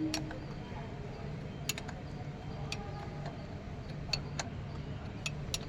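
Scattered light clicks and taps, irregular and about a dozen in all, from hand tools and parts being handled during engine work, over a steady low hum.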